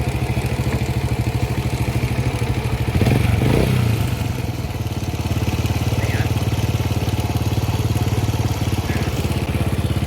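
Motorcycle engine idling with an even, steady pulse. About three seconds in it is briefly revved and gets louder, with its pitch rising and falling, then settles back to idle.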